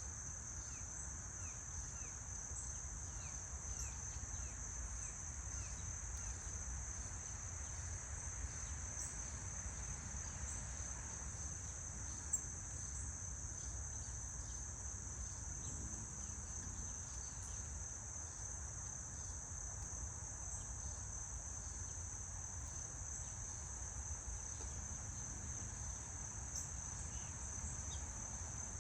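Insects trilling in a steady, high-pitched chorus, with a few faint short bird chirps here and there and a low rumble underneath. There is a single sharp click about halfway through.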